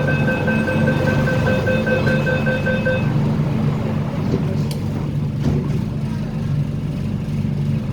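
Door-closing warning on an MTR Tung Chung line K-train: a rapid pulsing beep that stops about three seconds in. Under it runs the train's steady low hum.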